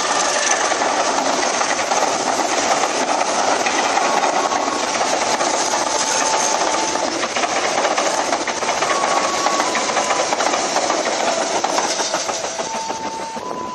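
Passenger train coaches passing close at speed: a steady rush and clatter of steel wheels on the rails, with short thin squeals here and there, easing slightly near the end.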